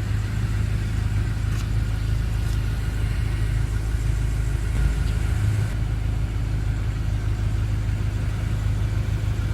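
The BMW M5's twin-turbocharged 4.4-litre V8 idling with a steady, even low hum.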